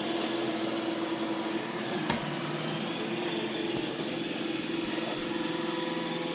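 iRobot Roomba E6 robot vacuum running: a steady motor whir with a constant hum, and one sharp click about two seconds in.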